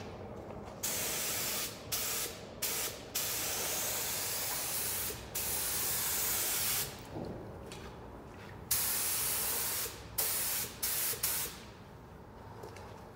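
Compressed-air paint spray gun hissing in repeated bursts as the trigger is pulled and released: about eight passes, the longest about two seconds, with short gaps between them.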